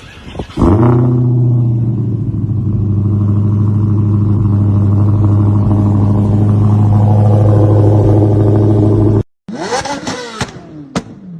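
Car engine catching suddenly and settling into a steady high idle for about eight seconds, then cut off abruptly; in the last two seconds a different engine-like sound rises and falls in pitch.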